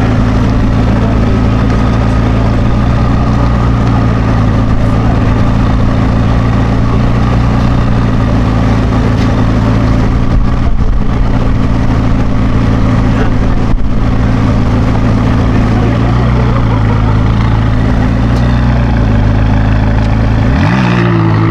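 A sports car's engine idling loud and steady close by, then revved sharply near the end, its pitch climbing quickly.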